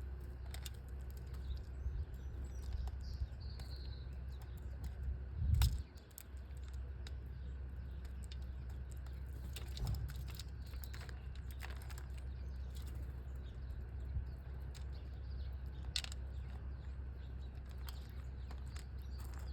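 Faint chirps of small wild birds over a steady low rumble, with many small scattered clicks and taps. A single loud thump about five and a half seconds in, and a softer knock near ten seconds.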